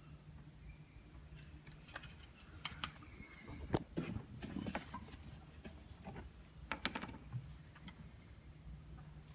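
Scattered light clicks and taps from handling parts under the hood during an oil top-up, the sharpest a little under four seconds in and again near seven seconds, over a faint low steady hum.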